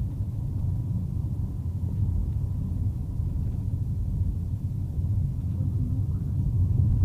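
Steady low rumble of a moving vehicle heard from inside: road and engine noise with no sudden events.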